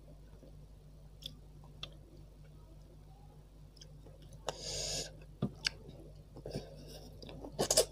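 Close-miked mouth sounds of eating, mostly quiet for the first few seconds. About halfway through there is a short sucking slurp, then wet smacks and clicks of chewing, loudest near the end.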